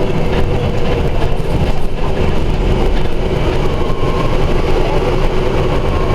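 Scania Omnidekka double-decker bus running along the road: steady engine and road noise, with a faint higher whine coming in about four seconds in.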